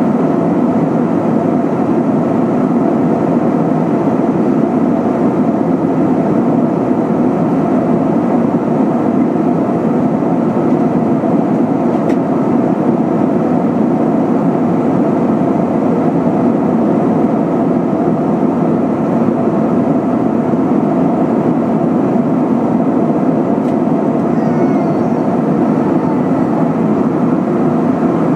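Steady, unbroken cabin noise of an Airbus A320-232 in flight, heard from inside the passenger cabin: a deep drone of airflow and the IAE V2500 turbofan engines.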